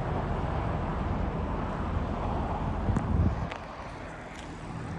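Road and engine noise of a moving vehicle, a steady low rumble with some wind on the microphone, easing off about three and a half seconds in.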